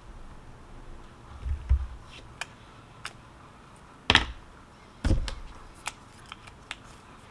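A string of light clicks and knocks, with two louder knocks about four and five seconds in and a couple of dull low thumps before them.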